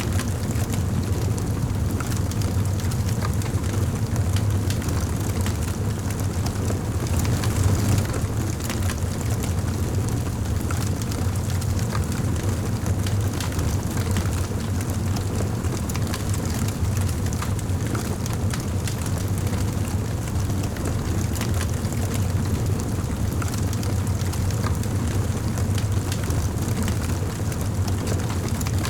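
Wood fire crackling: a steady low rumble of burning with small pops and snaps scattered irregularly throughout, one louder pop about eight seconds in.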